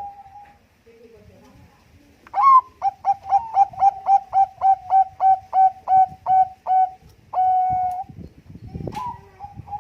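Zebra dove (Bangkok-type perkutut) singing: after a short pause, a fast even run of about fifteen short staccato coos, roughly three a second. The run ends in a longer held coo, and another coo starts near the end.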